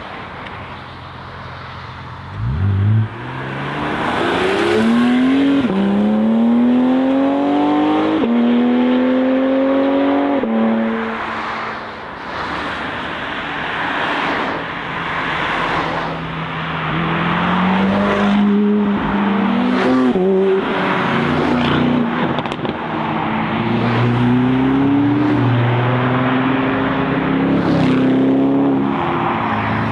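Sports car engine accelerating hard: the pitch jumps up sharply, then climbs and falls back through three quick upshifts. More engine sound follows, revving up and down as cars drive by.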